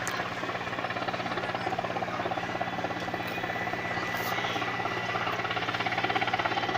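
Helicopter's rotor blades beating rapidly and evenly over the steady hum of its engine, growing a little louder toward the end as it comes in to land.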